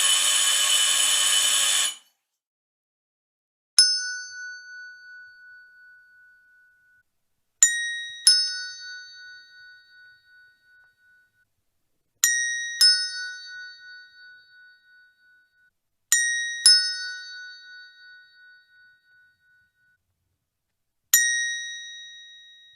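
Two-tone chime doorbell ringing ding-dong, a higher note then a lower one, three times, with a single lower note before and a single higher note at the end. Each note rings out with a wavering decay. Before the chimes, a harsh buzz cuts off about two seconds in.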